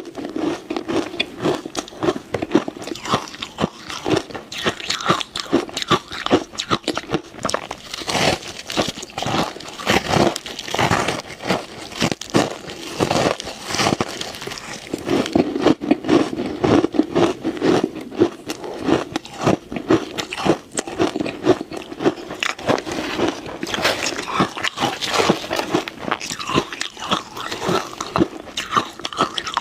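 Ice being bitten and chewed: continuous irregular crunching and cracking as the pieces break up between the teeth.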